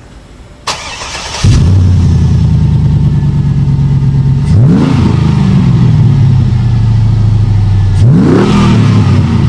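Chevy 6.0L V8 with a Banks aftermarket exhaust, cranking and catching about a second and a half in, then idling steadily. The throttle is blipped twice, about three and a half seconds apart, each rev rising quickly and falling back to idle.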